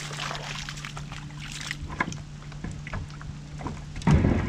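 Kayak being launched in shallow water: scattered knocks and splashes against the hull, with a loud low thump near the end. A steady low hum runs underneath.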